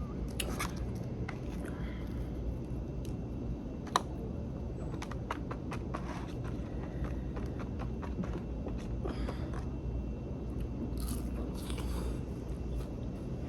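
Close-up eating of a fried fish-and-fries basket: bites, crunching and chewing, with scattered small clicks and scrapes, the loudest a sharp click about four seconds in, over a steady low hum.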